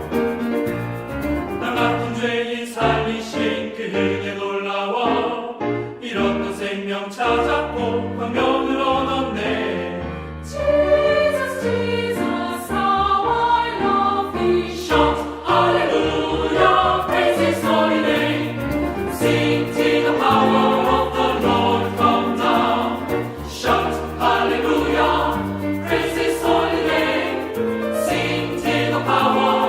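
A choir singing a Christian praise song over instrumental accompaniment, with steady bass notes underneath.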